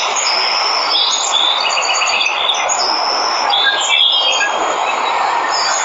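Waterfall rushing steadily, with several birds chirping and trilling over it in short, high, repeated notes.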